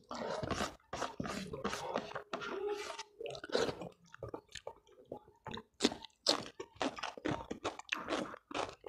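Close-miked chewing of a mouthful of food, with irregular crisp crunches, picked up by a clip-on microphone.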